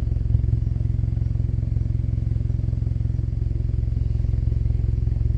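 An engine idling steadily, a low, even pulsing rumble.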